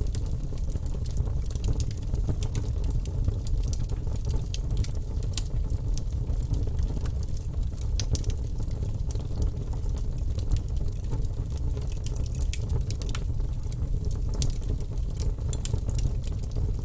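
Fire burning in a fireplace: a steady low rumble with irregular sharp crackles and pops.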